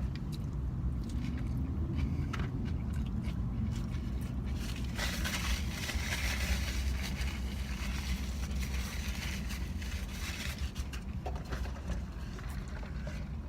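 Close-up eating sounds: biting into and chewing a shrimp taco, with small clicks and a louder crackling stretch from about five to ten seconds in, over a steady low hum.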